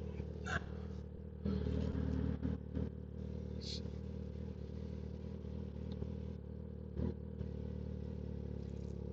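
Kawasaki ZX-10R inline-four engine running steadily at low revs while riding, a steady low hum that grows louder for about a second and a half starting about a second and a half in. A few short clicks sound over it.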